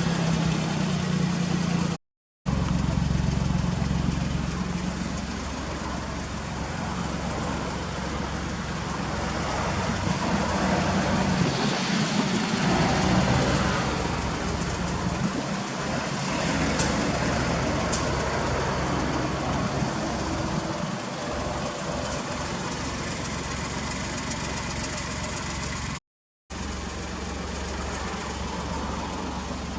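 Suzuki Kei Works' K6A turbocharged three-cylinder engine idling steadily through an aftermarket muffler. The sound cuts out abruptly twice, for a moment each time.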